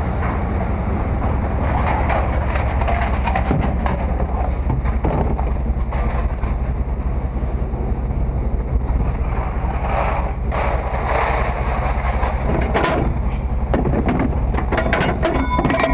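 A vehicle engine running steadily with rattles and clicks over it. Near the end a steady electronic beep starts.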